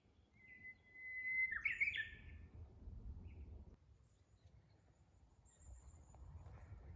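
A songbird singing: one long held whistle followed by a quick flourish of higher notes, with faint, very high thin calls later on over a low rumble.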